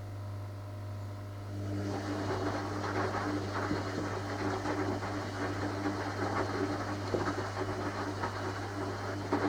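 Washing machine running: a steady low hum, and from about two seconds in a louder, dense rumbling noise with a steady motor tone as the drum turns.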